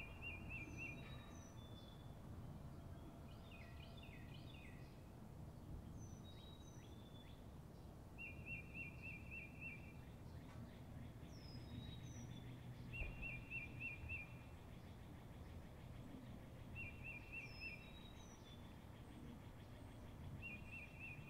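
Faint bird calls: a short, rapid trilled phrase repeated five times, with short high descending chirps in between, over faint low background noise.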